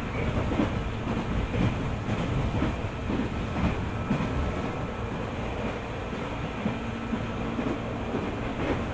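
JR 205 series 600 subseries electric train running along the line: a steady rumble of wheels on rail with irregular knocks and clatter from the track.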